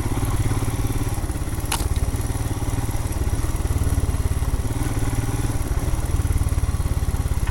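Royal Enfield Himalayan's 411 cc single-cylinder engine running steadily under way, with one sharp click a little under two seconds in.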